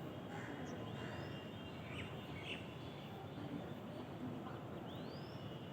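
Birds calling over a steady low background rumble: a few short chirps, and two calls that rise and then fall in pitch, one near the start and one near the end.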